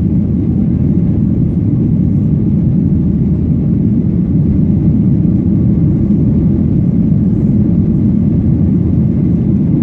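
Boeing 737-800 cabin noise heard from a window seat: a loud, steady rumble of the jet engines and airflow, with no change in level.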